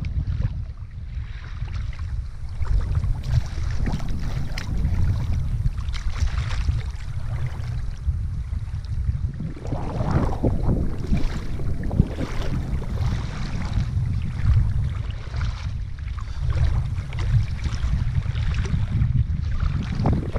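Wind rumbling steadily on the microphone over sea water sloshing in the shallows, with a louder swash of water about halfway through.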